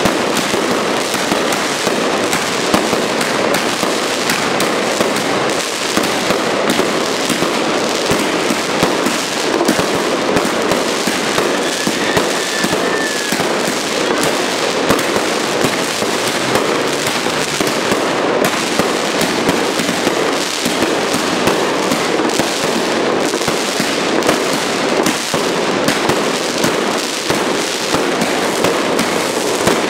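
A box of consumer fireworks (a multi-shot cake) going off on the ground, firing a dense, unbroken run of rapid pops and crackles.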